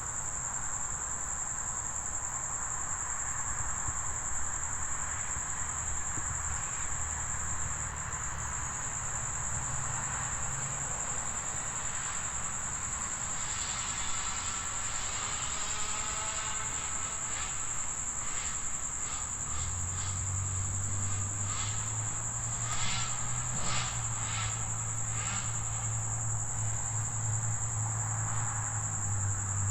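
Crickets trilling steadily in one continuous high-pitched tone. A low hum joins about two-thirds of the way through.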